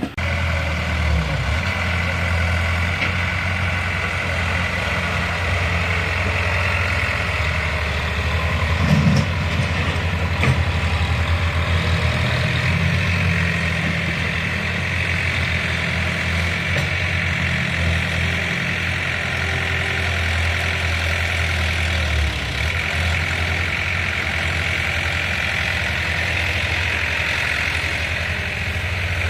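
Diesel tractor engine running steadily at low revs, its rhythmic low hum briefly swelling about nine seconds in.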